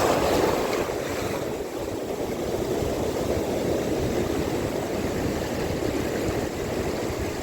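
Steady wind noise on the microphone over moving sea water, with a brief rush of noise right at the start.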